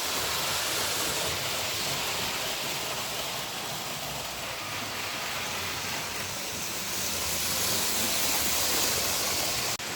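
Model trains running on an analog DC layout: a steady hissing whir of wheels on track and small motors, swelling a little near the end.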